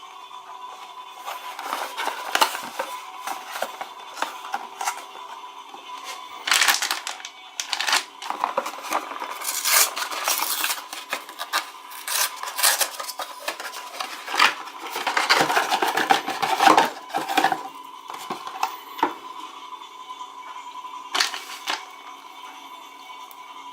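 Toys and their plastic packaging being handled and opened by hand: irregular clicks, rattles and crinkling, busiest about halfway through, over a faint steady hum.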